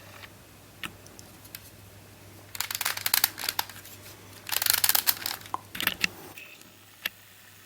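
Hard plastic clicking and rustling as a plastic twisty puzzle is handled, in two busy bursts of about a second each, one a little over two and a half seconds in and the other near five seconds.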